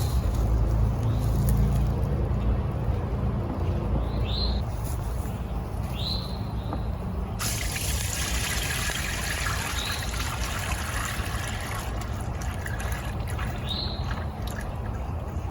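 Liquid pouring in a steady stream that starts suddenly about halfway through, over a low wind rumble on the microphone. A few short rising bird chirps come through.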